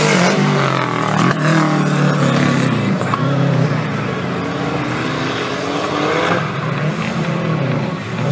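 Off-road 4WD racing vehicles' engines revving on a dirt course, their pitch rising and falling as they accelerate and back off.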